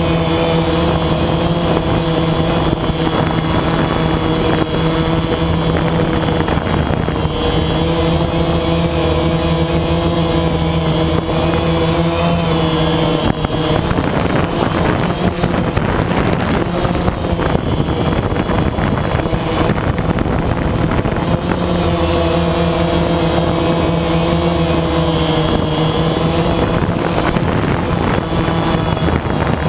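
A vehicle engine idling steadily at an even pitch. In the middle of the stretch the hum is masked for several seconds by a rougher, noisier rush.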